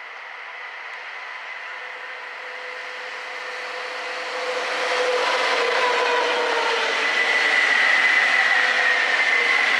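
Convoy of SNCF locomotives, BB 26000 electrics leading and BB 60000 diesels behind, approaching and passing at speed on the rails. It grows louder over the first five seconds and then stays loud, a rushing rail noise with a steady whine at several pitches that dips slightly as the locomotives go by.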